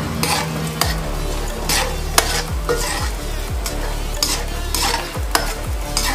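Makhana (fox nuts) frying in hot desi ghee in a steel kadhai, with a steady sizzle. A slotted metal spatula stirs them, scraping the pan in repeated short strokes, roughly two a second.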